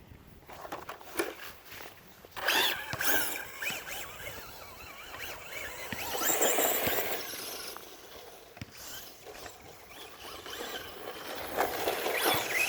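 Traxxas Rustler VXL brushless RC truck driving in bursts, a noisy rush that swells as it passes, loudest about two and a half, six and a half and twelve seconds in.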